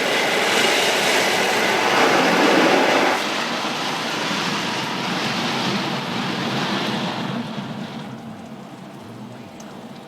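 Automatic car wash working over the car, heard from inside the cabin: a steady rushing of water and machinery that is loudest two to three seconds in and then fades away over the last few seconds.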